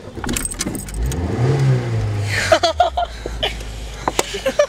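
Car engine started, revving up about a second in and then settling to a steady idle.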